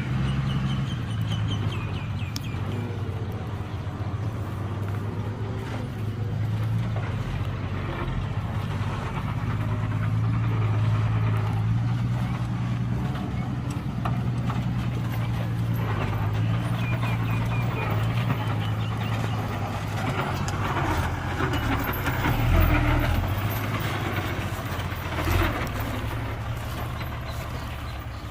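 Heavy diesel engine of a construction machine running at a steady pitch, with a few brief knocks and squeaks over it, easing off near the end.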